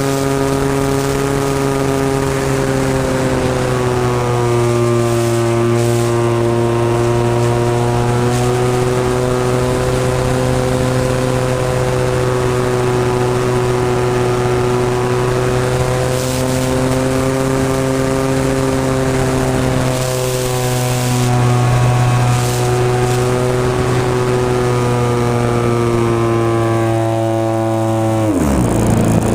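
The SV Hobbies 26cc single-cylinder two-stroke gas engine of a Seagull Models Spacewalker 120 RC plane running steadily, its pitch wavering slightly with throttle. Near the end the pitch drops sharply, then climbs back.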